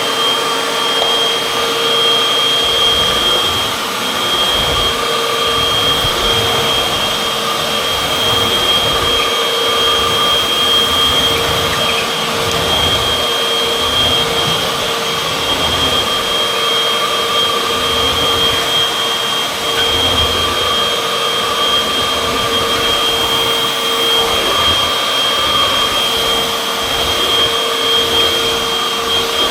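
Hoover UH70605 upright vacuum cleaner running steadily: a high motor whine over a rush of air.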